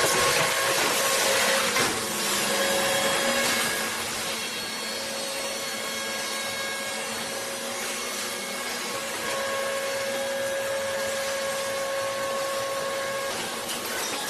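Heavy industrial machinery running: a steady mechanical whine with a few held tones over a broad rushing noise, louder for the first couple of seconds and then running evenly.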